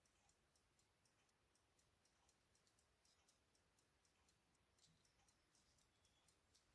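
Near silence, with faint, evenly spaced ticking.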